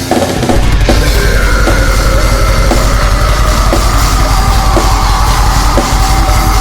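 Heavy metal music: distorted guitars holding long notes over fast, dense drumming. After a brief dip at the start, the full band comes back in loud about half a second in.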